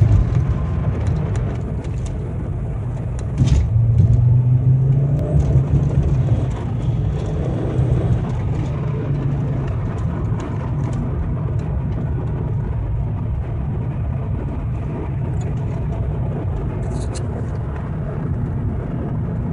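1996 Volvo 850R's turbocharged 2.3-litre five-cylinder engine running with a steady low rumble, which grows louder for about three seconds starting about three seconds in.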